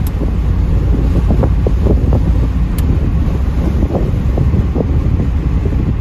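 Wind buffeting the microphone over the low rumble of road and engine noise inside a moving 1984 Pontiac Trans Am.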